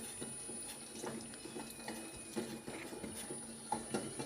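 Scattered light clicks and taps of kitchen handling, irregular and short, over a faint steady hum.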